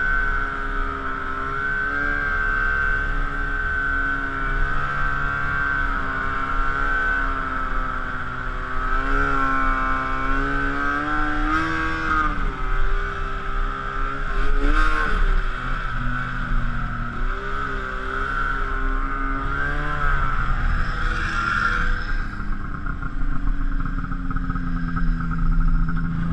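Arctic Cat F7 Sno Pro snowmobile's 700 cc two-stroke twin running on the trail, its pitch rising and falling with the throttle several times, then dropping to a lower, steadier note near the end as the sled slows.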